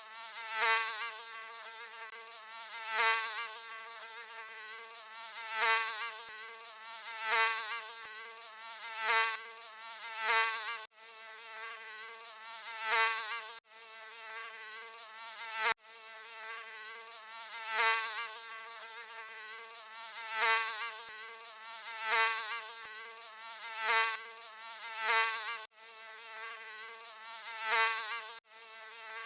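Mosquito wings whining in a thin, high-pitched buzz that swells loud and fades again every couple of seconds, as if flying close past the ear. The buzz cuts out for an instant a few times.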